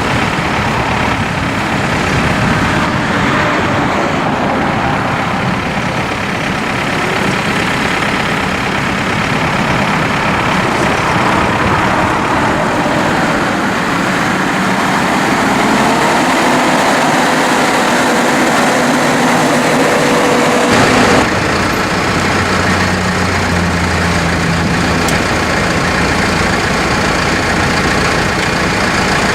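2014 New Holland T4.95's four-cylinder turbo diesel engine running steadily, its note changing about two-thirds of the way through.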